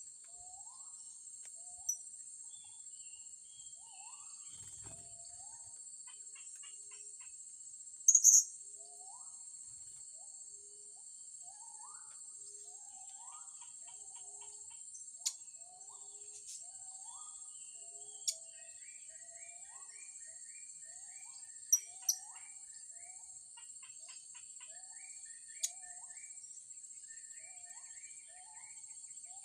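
Blue-crowned hanging parrots calling: short, shrill, high calls now and then, the loudest about a quarter of the way in. Under them run a rising call that repeats over and over and a steady high drone of insects.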